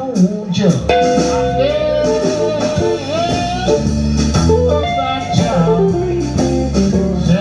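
Live band playing blues-rock, with electric guitar to the fore.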